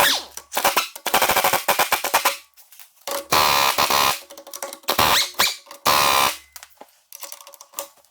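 Impact wrench hammering in several short rattling bursts, each a second or so long, as it breaks loose and spins out large bolts on a tractor's frame and front axle.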